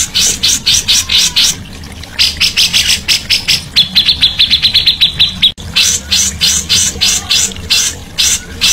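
A songbird singing in fast runs of sharp, loud chirps, several a second, breaking into a quicker even trill about four seconds in. The sound drops out for an instant just past halfway.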